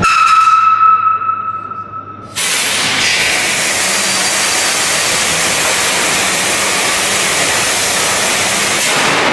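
A high, ringing tone fading away over about two seconds, then a loud, steady hiss that starts suddenly.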